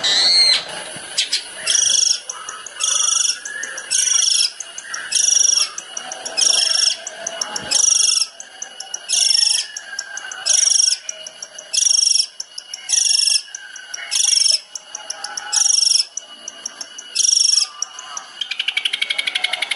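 Long-tailed shrike (cendet) repeating a short, high call about every second and a quarter, thirteen times over, then breaking into a fast rattling trill near the end.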